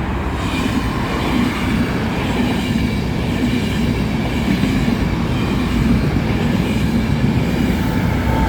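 Enterprise express passenger train passing through the station, its carriage wheels running on the rails in a steady rumble that grows slightly louder, with faint ringing tones above it.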